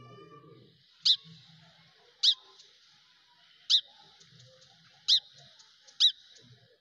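A bird giving five sharp, high chirps, each sweeping quickly downward in pitch, spaced about a second apart, over a faint steady high hiss. Light rustling is heard at the start.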